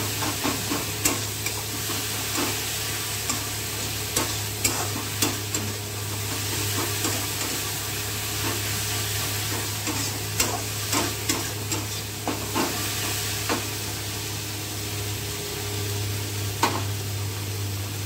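Onions, tomato and ginger-garlic paste sizzling in hot oil in a black kadai while a metal spatula stirs and scrapes the pan, with irregular clinks of steel on the pan and one sharp clink near the end. A steady low hum runs underneath.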